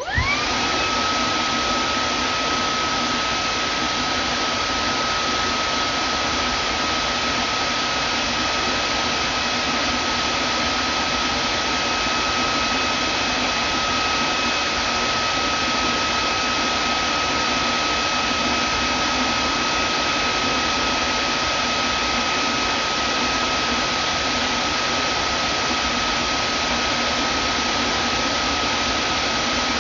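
Vacuum cleaner switched on: its motor spins up in well under a second with a rising whine, then runs steadily with a high whine over a loud even rush of air.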